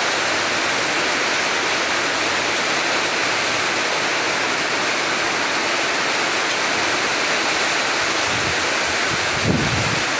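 Heavy rain falling steadily onto a flooded paved street, an even rushing sound, with a short low thump near the end.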